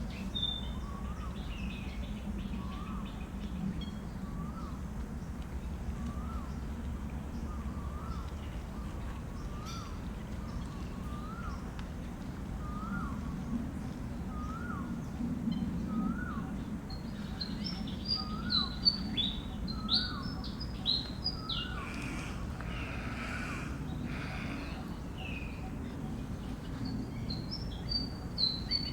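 Birds calling: a short rising-and-falling call repeats about once a second, and quicker high chirps crowd in during the second half, over a steady low hum.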